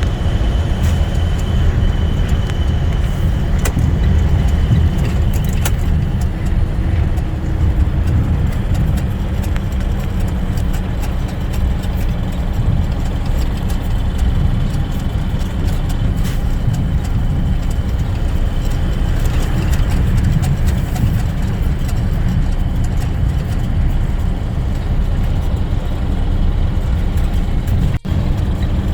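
Box truck driving, heard from inside the cab: a steady, loud low rumble of engine and road noise.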